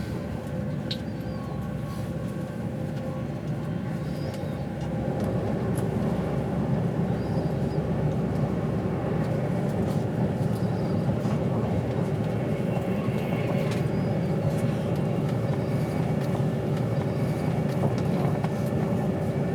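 Steady rumble and hum of an intercity train running at speed, heard from inside the passenger carriage. It grows a little louder about five seconds in, where a steady hum joins in.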